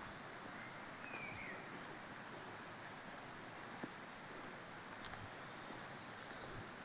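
Faint outdoor ambience, a steady soft hiss with a single short falling bird chirp about a second in and a few faint clicks later on.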